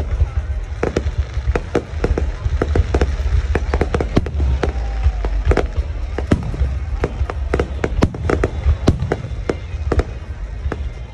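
Fireworks display: a rapid, irregular string of sharp bangs and pops over a steady low rumble.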